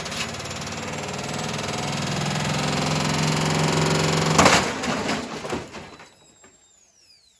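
Hoover H Wash 300 washing machine tearing itself apart under power: a dense rattling and grinding over a steady motor hum that grows louder for about four seconds. A loud crash comes about four and a half seconds in, then the noise dies away as the motor winds down with a falling whine.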